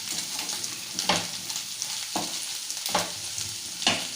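Egg and onion fry sizzling in hot oil in a pan, with a spatula scraping through it four times, about once a second, as it is stirred.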